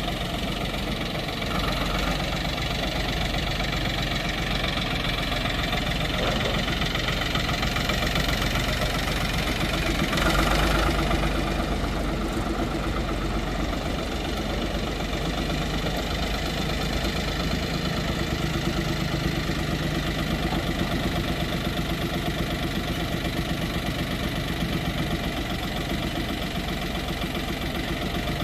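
Ford 3500 loader backhoe's three-cylinder diesel engine idling steadily, briefly louder about ten seconds in.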